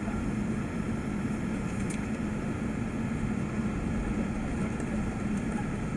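Steady engine and airflow roar of an Airbus A380-800 heard inside the passenger cabin, even and unbroken, with a low hum.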